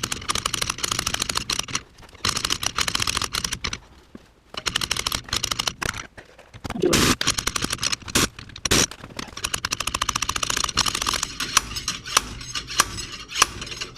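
Pneumatic air hammer hammering in several bursts of rapid, machine-gun-like blows, with sparser single knocks near the end, as it drives the seized rear wheel hub out of a BMW E36.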